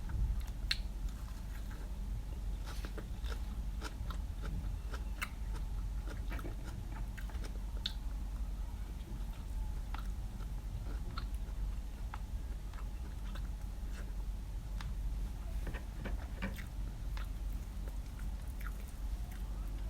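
A person chewing and biting food close to the microphone, with scattered small crunches and mouth clicks, over a steady low hum.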